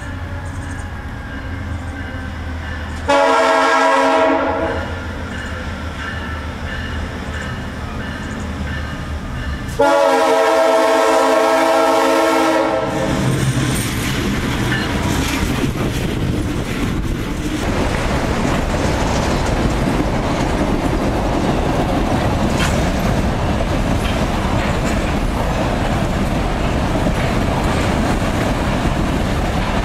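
Freight train hauled by EMD SD-series diesel locomotives: a low engine rumble, then two horn blasts, a short one about 3 s in and a longer one about 10 s in. The locomotives then pass close, and a string of hopper cars rolls by with steady wheel clatter on the rails.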